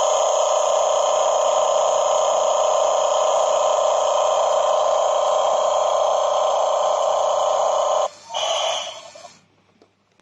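Battery-operated 1:16-scale toy heavy truck giving off a loud, steady buzzing tone for about eight seconds. It cuts off suddenly, then sounds again briefly for about a second.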